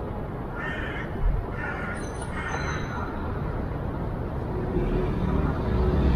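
A crow cawing three times in quick succession, harsh calls of about half a second each, over a steady low rumble of distant traffic.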